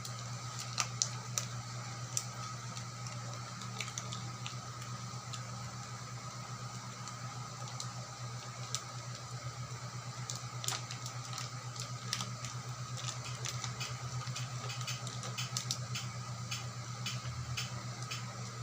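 Scattered light clicks and taps over a steady low hum, the clicks coming more often in the second half.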